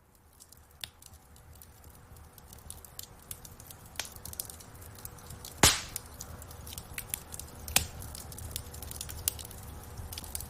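Wood fire in a fireplace crackling, with scattered sharp pops over a low steady rumble of flame. The fire grows louder over the first few seconds, and one loud pop comes about halfway through.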